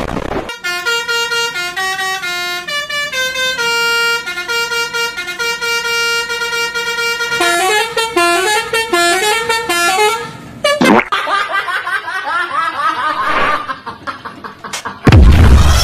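Basuri-style telolet bus horn, the multi-tone musical horn of Indonesian buses, playing a melody of stepping notes for about ten seconds. It is followed by a few seconds of quick rising glides, and a loud bang just before the end.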